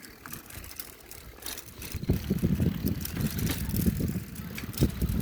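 Bicycle ridden over rough dirt ground: rattling, clicking and rumbling, much louder from about two seconds in.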